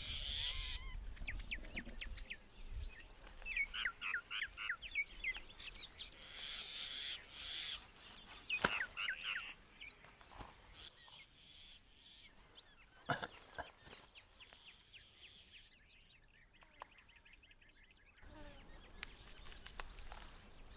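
Wild birds chirping in quick, repeated calls, with a couple of sharp clicks in between; the chirping thins out in the second half.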